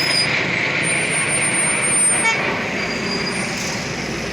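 Military jet aircraft flying past, a loud, steady roar that slowly fades as it moves away.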